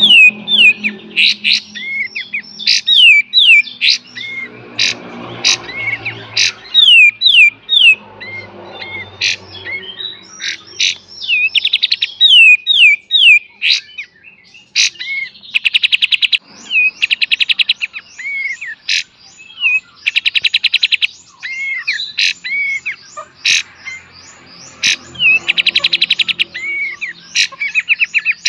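Kapas tembak songbird singing in its 'beset and tembak' style: a string of sharp, downward-swept whistled notes, broken from about halfway on by short bursts of a very fast, buzzy trill every few seconds.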